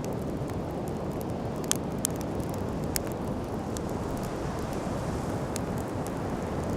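Wood campfire crackling, with a few sharp pops about two and three seconds in, over a steady low rushing background.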